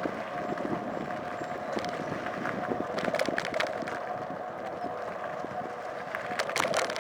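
Motorcycle underway: steady engine and road noise with a constant hum, and two short bursts of sharp clicking, about three seconds in and again near the end.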